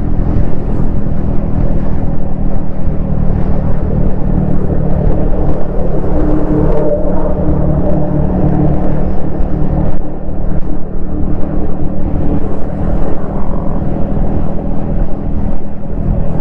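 Yamaha XSR155's single-cylinder four-stroke engine and exhaust running at a fairly steady cruising pace, pitch lifting slightly about halfway through, under a haze of wind and road noise on a helmet-mounted camera.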